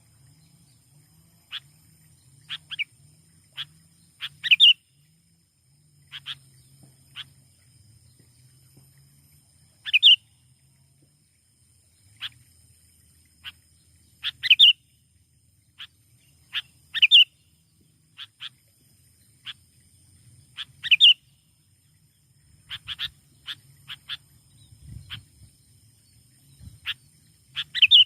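Sooty-headed bulbul (kutilang) calling: short, sharp chirps scattered irregularly, with a louder call note every few seconds.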